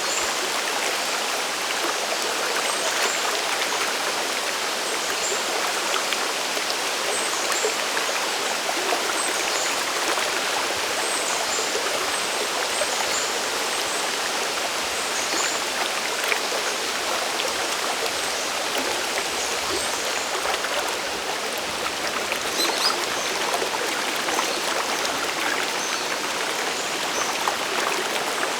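Mountain waterfall and stream water rushing in a steady, even wash, with faint short high-pitched calls now and then.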